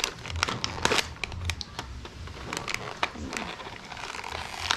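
Crinkling and handling noise with scattered sharp clicks and taps as a plastic toy and its packaging are handled.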